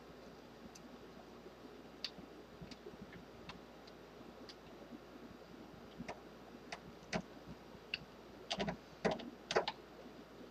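Light clicks and taps of a Torx driver and metal screws being worked while a rifle forend's screws are tightened, scattered at first and then coming faster and louder in a cluster near the end.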